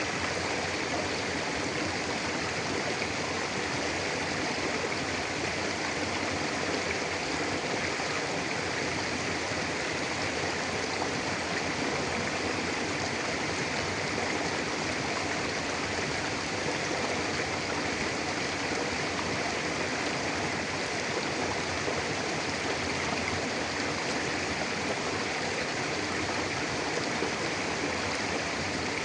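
Mountain river flowing steadily over rocks, a continuous even rush of water.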